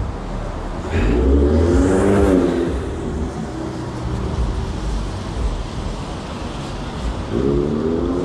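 City street traffic: a car passes about a second in, its engine note rising and then falling, over a steady hum of traffic. Another vehicle begins to pass near the end.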